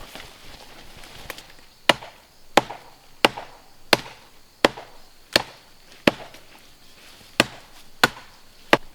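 A blade chopping in an even rhythm: about a dozen sharp strikes, roughly three every two seconds, the first a little weaker.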